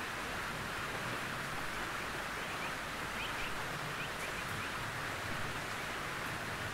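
Gentle rain on a tin roof: a steady, even hiss of drops on the metal, with a few faint short chirps about halfway through.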